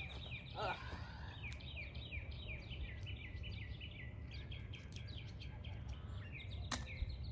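Songbirds chirping in rapid runs of short falling notes, over a steady low outdoor rumble; a single sharp click near the end.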